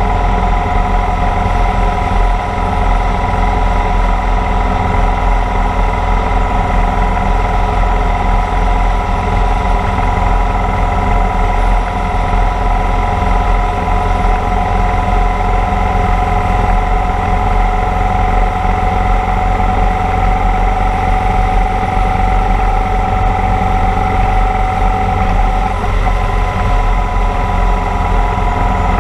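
Motorcycle engine running steadily at cruising speed, its pitch almost constant, with wind rumbling on the microphone underneath.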